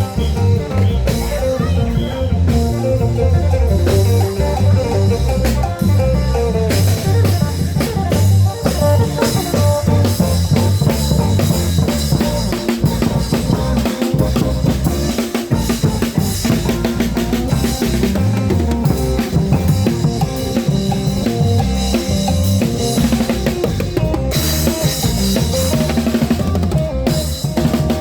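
Thai klong yao long-drum band playing loud, continuous procession music, with the drums beating a steady rhythm.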